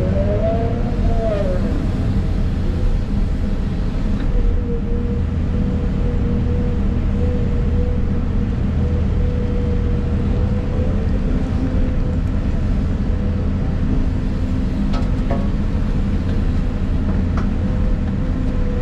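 A brand-new Volvo 250 excavator's diesel engine and hydraulics run steadily, heard from inside the cab, with a constant whine over the low drone. The whine rises and falls in pitch once, about a second in, as the machine works.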